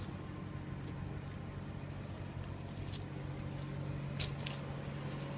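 A vehicle engine running at idle: a steady low drone. A few short scuffs of footsteps come near the middle.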